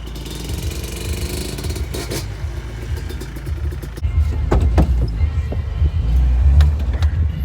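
A motor vehicle running and moving off: a low rumble that gets louder about four seconds in, with a few knocks.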